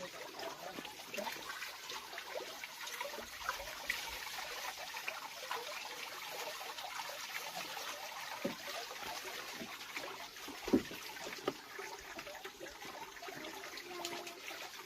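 Water trickling and splashing, with scattered small clicks and one louder thump about two-thirds of the way through.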